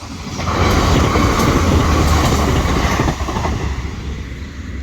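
Passenger train passing through the station at speed without stopping. A loud rush of wheel and running noise builds in the first second with a few sharp clicks from the wheels, then fades away after about three seconds.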